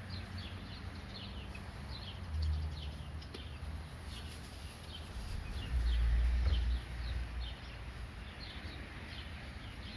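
Small birds chirping repeatedly in short, slightly falling notes. A low rumble on the microphone comes twice, about two seconds in and more strongly around six seconds in.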